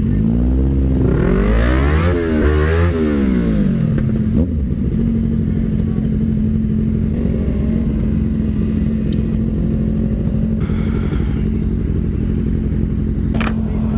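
Yamaha R25's parallel-twin engine running at a steady speed through an aftermarket exhaust, heard from the bike. In the first few seconds other engine tones sweep up and down in pitch over it, and there is a sharp click near the end.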